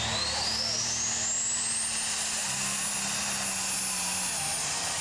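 Super stock pulling tractor's engine with four turbochargers, its RPMs brought up slowly so the turbos build boost pressure. A high turbo whine rises steeply for about two seconds, then holds at a steady high pitch over the engine's running.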